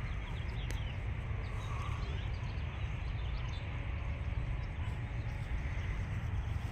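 Small birds chirping over a steady low rumble, the chirps thickest in the first few seconds.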